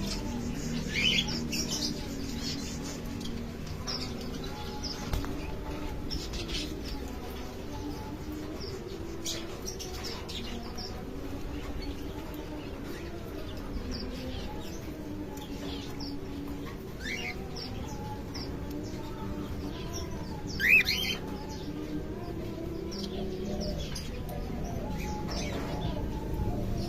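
Aviary birds calling: scattered short chirps and calls from several birds, the loudest about twenty seconds in, over a steady low background.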